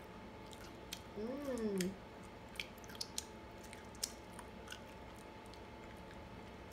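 A person chewing nuts right at the microphone: faint scattered crunches and wet mouth clicks. About a second in there is a short hum that rises and falls in pitch.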